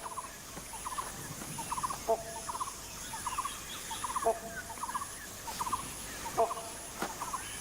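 Short trilling animal calls repeated over and over, more than one a second, over a faint background hum of swamp wildlife.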